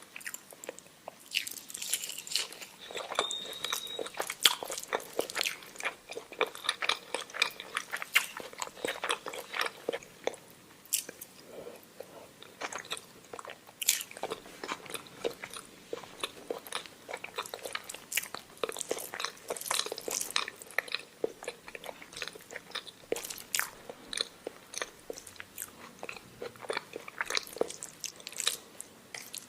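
Close-up mouth sounds of a person eating omelette with rice: continuous chewing with many short, irregular clicks.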